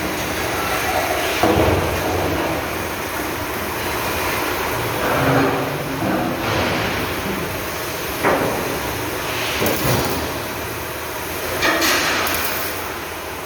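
Steel parts of a dump truck body being hammered and knocked together: a handful of irregular metallic knocks and clangs over a steady workshop noise.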